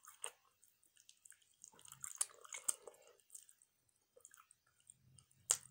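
Faint close-up eating sounds of barbecue rib tips picked apart by hand: wet chewing and lip smacks with scattered small clicks, and one sharper click near the end.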